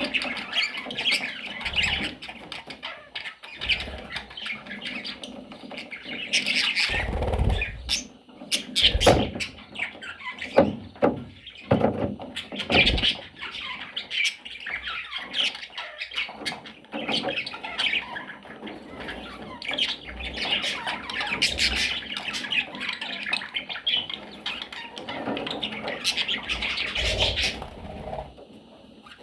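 A flock of budgerigars chattering and squawking continuously, with a run of louder thumps between about seven and thirteen seconds in.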